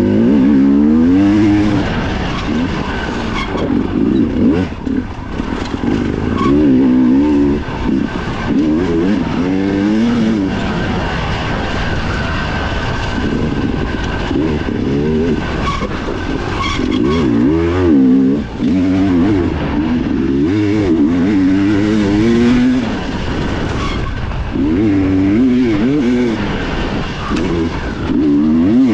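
Dirt bike engine heard from on board, its revs rising and falling over and over as the rider works the throttle and gears through the trail.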